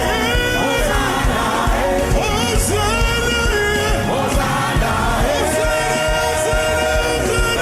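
Gospel worship song: voices singing a melody with a choir backing over a steady drum beat.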